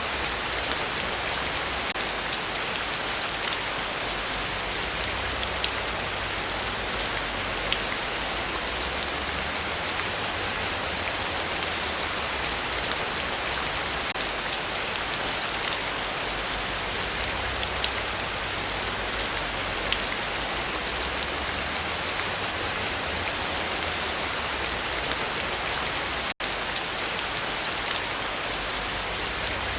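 Heavy rain falling steadily, a dense, even hiss with the ticks of single drops. The sound cuts out for a split second near the end.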